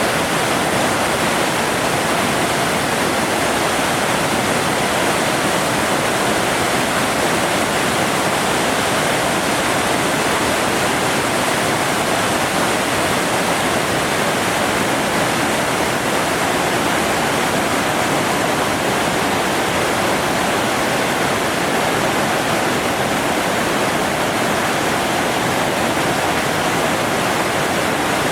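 Waterfall: a loud, even rush of falling water.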